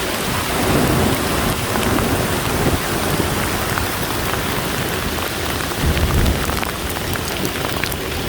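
Hailstorm mixed with hard rain pelting down: a dense, steady hiss peppered with many small sharp ticks of hailstones striking. A low rumble swells briefly about six seconds in.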